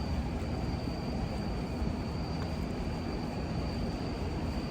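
Box truck's engine running with a steady low rumble, with a thin, steady high tone above it.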